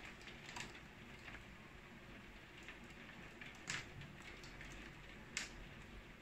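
Rain against a windowpane: a faint steady hiss with scattered sharp taps of drops striking the glass, two louder ones about halfway through and near the end.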